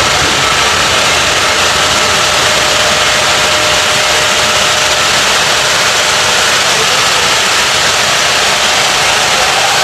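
The Union Pacific Big Boy excursion train, with its steam locomotive and accompanying diesel, moving out past the track. It makes a loud, steady rushing noise with no break.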